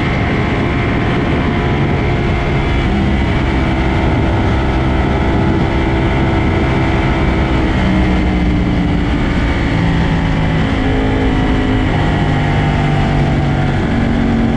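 Sport motorcycle engines running hard at speed, several engine notes at once shifting up and down in pitch, over a steady loud rush of noise.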